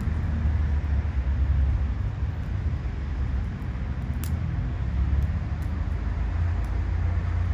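Ubame oak firewood burning in an open fire pit, with a few sharp crackles, the clearest about four seconds in, over a steady low rumble.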